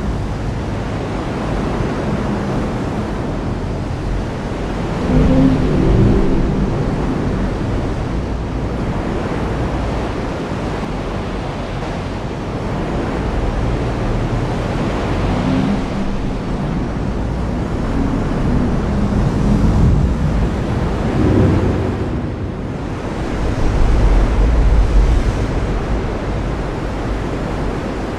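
Heavy rain falling steadily, with low rumbles of thunder swelling up several times: around five seconds in, in the middle, and twice near the end.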